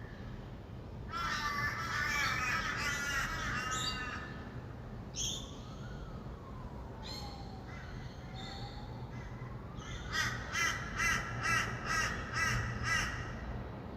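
Rainbow lorikeets give a dense burst of harsh, screeching chatter about a second in. Near the end a bird gives a run of about eight loud harsh calls, two or three a second. Underneath is a steady low hum of distant traffic.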